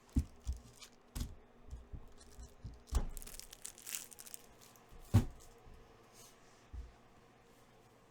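Sports card packs being torn open and handled: wrapper tearing and crinkling, loudest for a second or so around the middle, among several sharp knocks as cards and packs are set down on the table.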